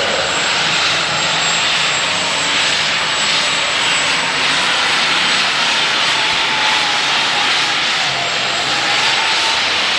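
Turbocharged diesel engine of a Super Stock pulling tractor running hard at high revs under load, with a steady high turbocharger whine over the engine noise.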